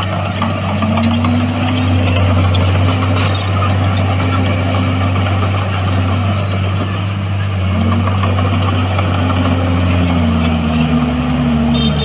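Heavy construction machine's diesel engine running steadily, its pitch dipping and recovering several times as the load changes.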